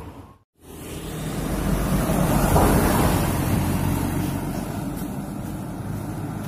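A truck's engine running, with rough wind-like noise, swelling to a peak about halfway through and then easing. The sound cuts out completely for a moment just after the start.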